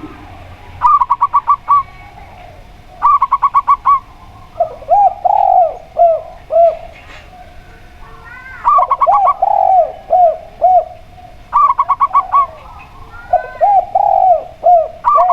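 Zebra dove and spotted dove calling in turn. Short, fast, higher trilled phrases of about six quick notes come about five times. Slower phrases of four or five lower, rounded coo notes come three times.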